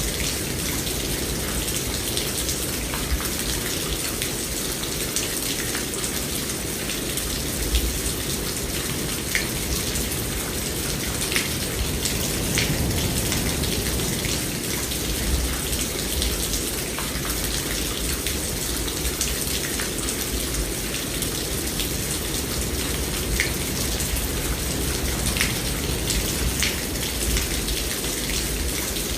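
Steady rain falling, with individual drops ticking sharply here and there over an even hiss, and a low rumble underneath.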